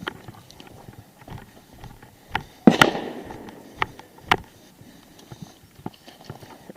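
A handful of sharp cracks and knocks at irregular intervals, the loudest a quick double crack about three seconds in with a short fading tail.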